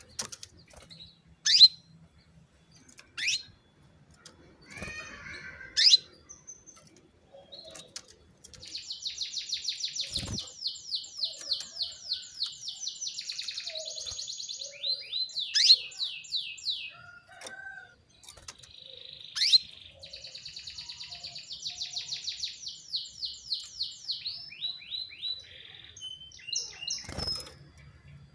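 Domestic canary calling and trilling: a few loud, sharp call notes that sweep downward, then two long, fast trills of rapidly repeated chirps, each lasting several seconds.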